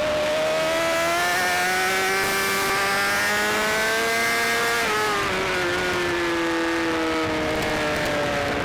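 Racing motorcycle engines at high revs. One holds a steady pitch while a second slowly climbs, then drops in pitch about five seconds in and keeps falling.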